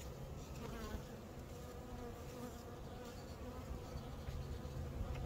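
Honey bees buzzing at a hive, a steady hum over a low rumble.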